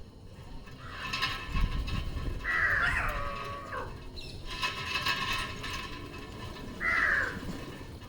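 Green parrots squawking: a series of about four harsh, raspy calls, a second or two apart.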